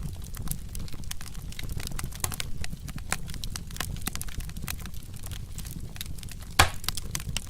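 Wood fire crackling, with irregular sharp snaps over a low rumble of flames and one loud pop near the end.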